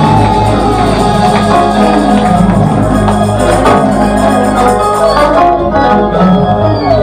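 Church worship music led by a Hammond-style organ holding sustained chords over a steady bass, with light percussion.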